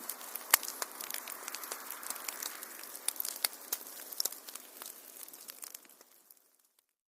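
Wood fire in a fireplace crackling, with sharp pops over a steady hiss. It fades out over the last two seconds into dead silence.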